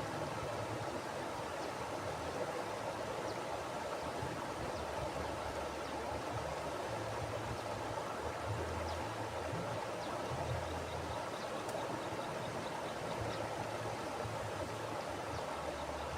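Mountain river flowing over rocks: a steady rushing of water with a low, uneven rumble beneath.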